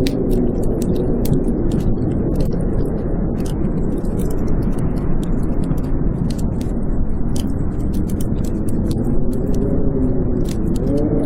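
Blizzard wind howling, a steady roar with a wavering moaning tone that rises and falls, strongest near the end, over a wood fire crackling with frequent sharp pops.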